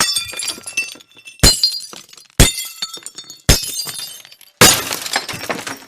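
Glass breaking five times, about a second apart: each is a sharp crash followed by high tinkling of shards that fades. The last crash, near the end, is longer and noisier.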